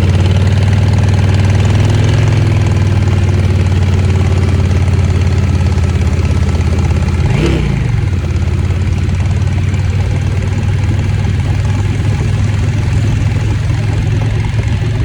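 Motorcycle engine running steadily at low revs while riding. About halfway through the engine note briefly dips and climbs back.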